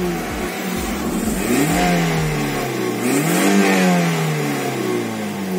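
Toyota Vios's 1NZ-FE 1.5-litre four-cylinder petrol engine revved twice with the car standing still, the pitch rising and falling back each time. The engine still sounds fairly smooth at over 440,000 km.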